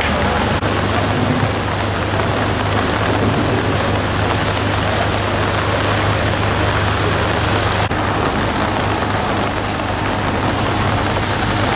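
Heavy downpour: a steady rush of rain, with a steady low hum underneath.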